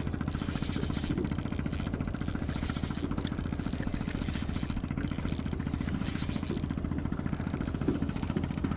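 Shimano Stradic C2000S spinning reel being cranked steadily while fighting a hooked fish: a continuous mechanical whirr, with a hiss that comes and goes in regular pulses.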